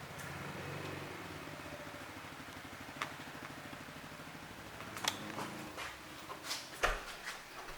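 A low, steady mechanical hum that fades out about six seconds in, with a sharp click about three seconds in and several clicks and knocks near the end.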